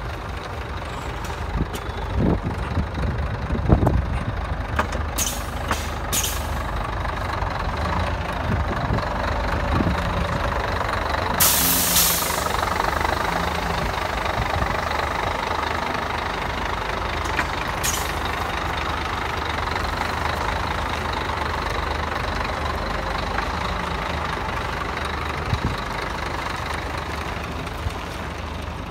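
Three-axle Scania truck's diesel engine idling steadily, with a few clunks in the first few seconds. Several short hisses of released air, the longest about twelve seconds in.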